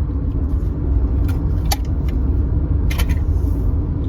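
Car driving, with a steady low road and engine rumble heard from inside the cabin. Two short clicks come through, about a second and a half in and again near three seconds.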